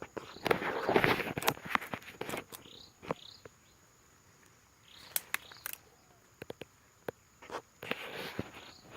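Rustling and crackling from vegetation being stepped through or handled, with sharp clicks. A few short rising chirps come from a bird, and a steady high insect drone runs underneath.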